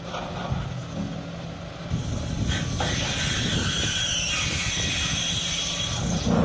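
Hydraulic scrap-metal shear working steel: a steady low machine rumble, then from about two seconds in a louder din of grinding with high metallic screeching.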